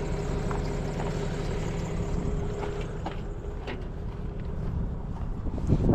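Steady low rumble of a vehicle engine running, with a few faint clicks.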